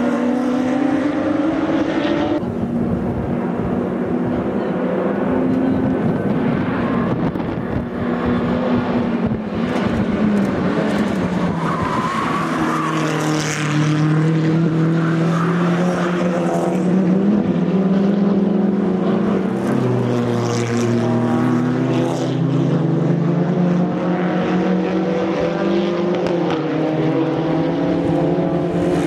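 Several race cars with loud, unsilenced exhausts running hard past the track edge, their engine notes overlapping. The pitch rises and falls continuously through throttle changes and gear shifts.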